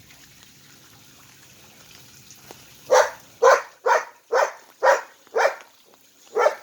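A dog barking: six quick barks about two a second, then one more after a short pause.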